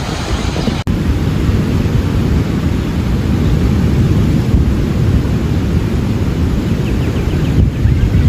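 Strong wind buffeting the microphone: a loud, steady low rumble with a momentary break about a second in.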